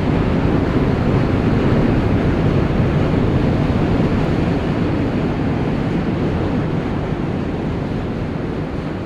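Loud, steady rumbling roar of a train crossing the bridge overhead, easing slightly over the last few seconds.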